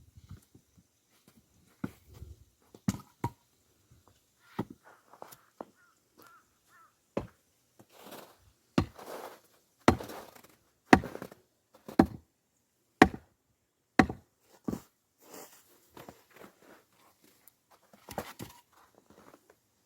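Axe strikes splitting firewood logs: a series of sharp chops, coming about once a second through the middle of the stretch, some followed by the crackle of wood splitting.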